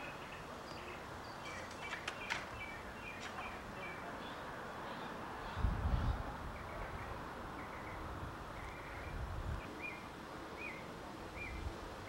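Birds chirping in short repeated calls over a steady hiss, with a few sharp clicks about two seconds in and a brief low rumble about halfway through.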